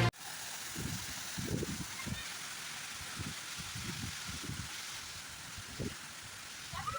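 Steady rush of flowing water from a waterfall or stream, with faint low muffled sounds scattered through it.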